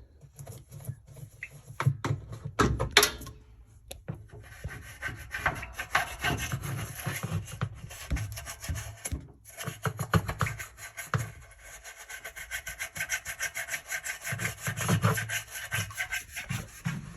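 Hand scrubbing inside a washing machine with cleanser: rapid back-and-forth rubbing strokes in bursts, scouring off built-up grime and old detergent.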